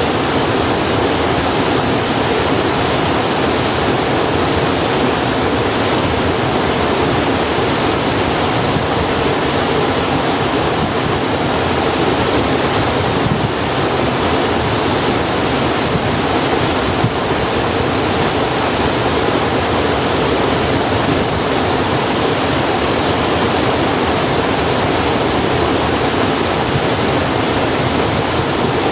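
Steady, even rushing noise that stays loud throughout, with no crackles or pops standing out.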